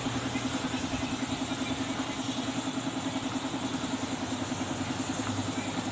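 A small motor running steadily with a rapid, even pulse, over a steady hiss.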